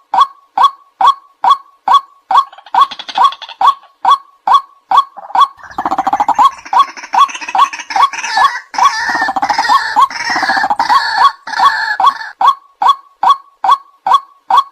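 White-breasted waterhen calls: a loud, regular 'kwak' repeated about three times a second. From about six seconds in to about twelve, a denser, rougher chorus of calls joins in. A looped lure recording for calling waterhens in.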